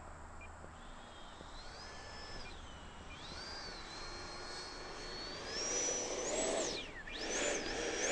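Electric ducted-fan whine of an FMS Rafale RC jet in flight, its pitch rising and falling with throttle changes. It grows louder in the second half, dips sharply a little before the end, then comes back up.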